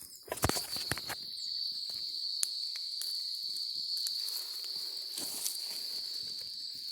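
Steady, high-pitched chirring of insects in the scrubland, unbroken throughout. A few sharp clicks and knocks of handling in the first second and another about two and a half seconds in.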